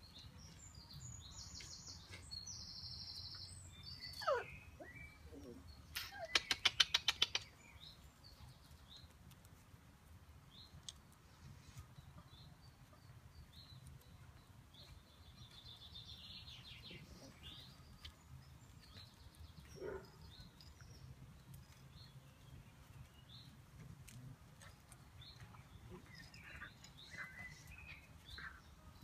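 Songbirds chirping in the background, with a brief falling squeal about four seconds in and a loud, rapid rattle lasting about a second soon after. A faint low rumble runs underneath.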